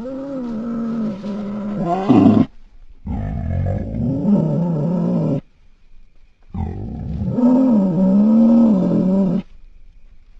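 Creature-call sound effect for Miotapirus, an extinct tapir, built from Hercules beetle sounds: three long, wavering roar-like calls, each two to three seconds long, with short gaps between them.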